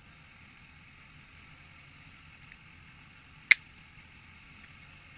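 A single sharp click about three and a half seconds in, over a faint steady hiss.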